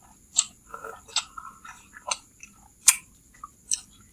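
Close-miked wet chewing and slurping of chicken noodles, with five sharp, wet mouth smacks a little under a second apart.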